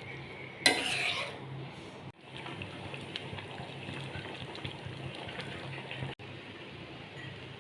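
Food being stirred and fried in a pan or pot, with a steady hiss, a low hum, and a sudden loud burst of hissing noise under a second in that lasts about half a second.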